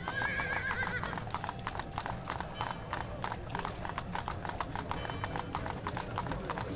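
Horses' hooves clip-clopping on a street, many irregular, overlapping strikes over a steady low rumble. A brief high warbling sound comes in the first second.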